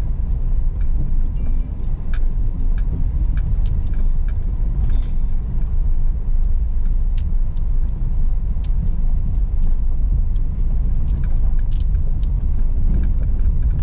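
Car driving slowly on a rough unpaved road: a steady low rumble of tyres and engine, with many scattered small clicks and rattles.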